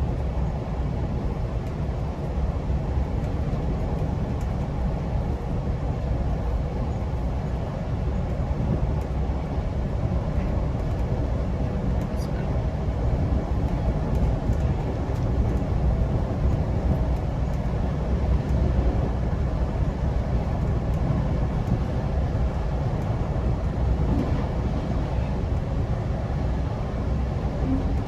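GO Transit commuter train running steadily at speed, a continuous low rumble of wheels on track with a faint steady hum.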